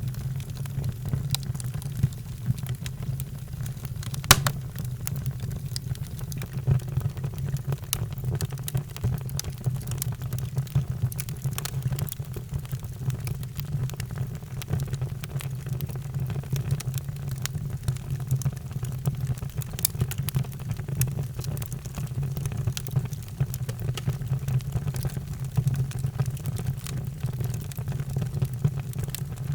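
Wood fire crackling with frequent small pops over a steady low rumble, and one louder pop about four seconds in.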